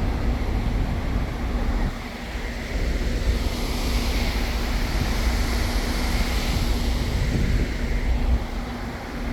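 Wind buffeting the microphone in an uneven low rumble, over a steady low hum.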